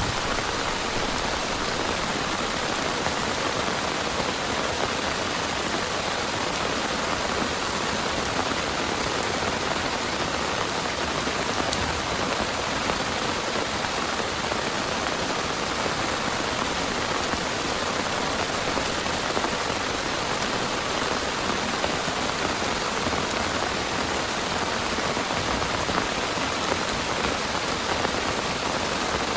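Heavy rain pouring steadily on a tent.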